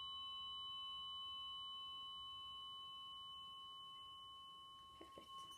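Biofield tuning fork ringing in several steady, pure high tones that fade slowly and die away near the end.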